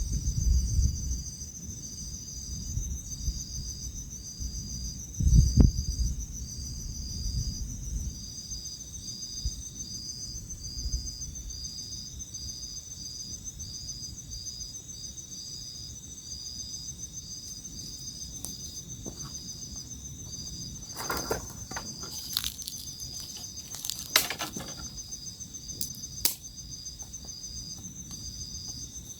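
Night insect chorus of crickets: several steady high-pitched trills, one of them a regular pulsing chirp, over a low rumble. There is a thump about five seconds in and a few sharp clicks past the twenty-second mark.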